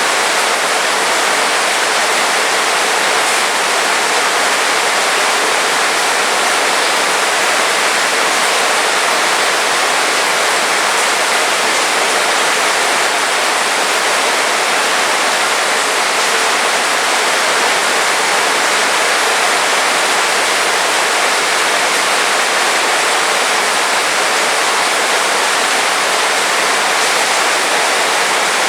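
Heavy rain falling steadily, an even, unbroken hiss of rain with no distinct drops or thunder.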